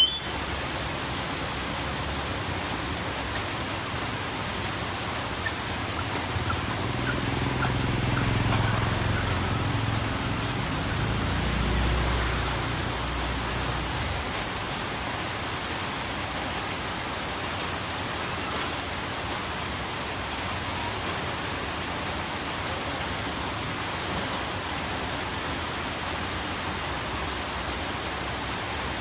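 Steady rain falling, an even hiss throughout. A low rumble swells and fades from about six to fourteen seconds in.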